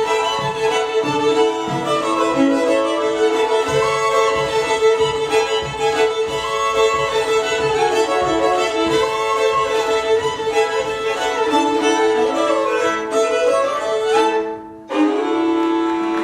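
Lively fiddle tune played over a steady drone string, backed by a rhythmic string-band accompaniment. The tune breaks off briefly near the end, then closes on a long held final chord.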